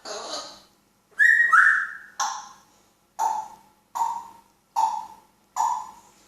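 African Grey parrot calling: a two-note whistle about a second in, then a run of five short, evenly spaced calls, about one a second.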